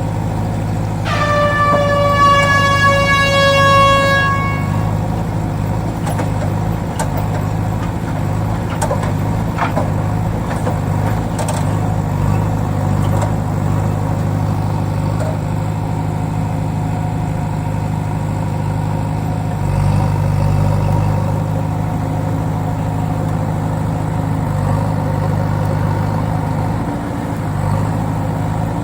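A steady low engine drone, with a horn sounding for about four seconds starting about a second in, its pitch sagging slightly as it holds.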